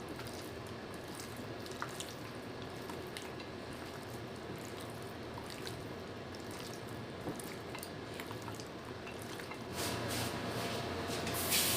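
Hands kneading and rubbing a wet spice marinade of curd, lemon juice and ginger-garlic paste into raw chicken pieces: faint wet squelching with small scattered clicks. A brief louder hiss comes just before the end.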